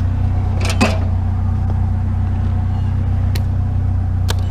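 Idling vehicle engine, a steady low hum throughout, with a few light knocks and clinks from a metal grill being handled about a second in and again near the end.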